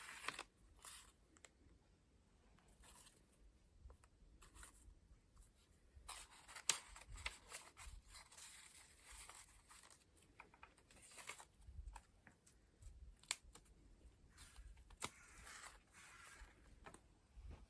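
Quiet paper handling: pages of a paper collage book being turned, with brief rustles and light taps and clicks scattered through, the sharpest tap about a third of the way in.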